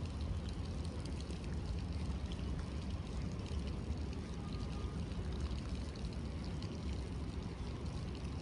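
Steady rain falling on wet stone paving, an even hiss dotted with many small drop ticks, over a constant low rumble.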